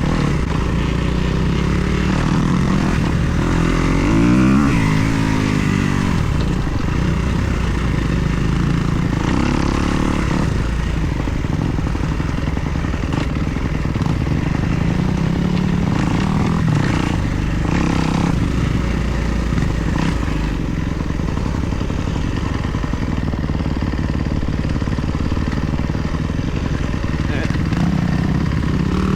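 Kawasaki KX250 dirt bike's four-stroke single-cylinder engine running under way, its pitch rising and falling as the throttle is opened and closed, with a sharp rev-up a few seconds in.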